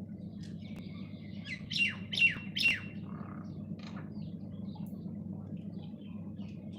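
Small birds chirping: three loud, quick downward-sweeping chirps about two seconds in, with fainter chirps around them, over a steady low hum.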